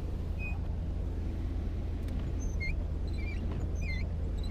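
Steady low rumble of a car, heard from inside the cabin, with a run of short high squeaks starting about two seconds in.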